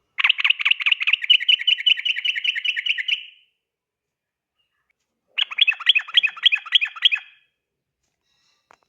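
Yellow-vented bulbul (trucukan) singing its rapid 'ropel' song: a fast string of about five bright repeated notes a second for some three seconds, a pause of about two seconds, then a second, shorter run.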